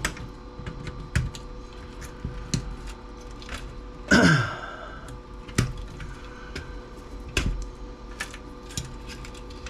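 Jumper wires and parts being stripped off an old single-sided circuit board with hand tools: irregular clicks and snaps. One louder creaking scrape about four seconds in falls in pitch. A faint steady hum runs underneath.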